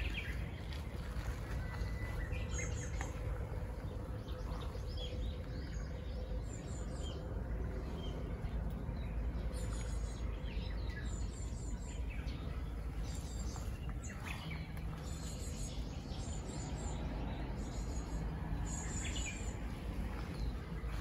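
Small songbirds chirping in short, high-pitched calls that come in little clusters every second or two, over steady low outdoor background noise.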